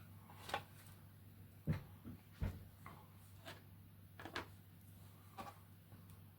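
Light knocks and clicks of hard plastic parts being handled and set down on a work surface, about eight taps spread unevenly, two of them deeper thumps in the first half. A low steady hum sits underneath.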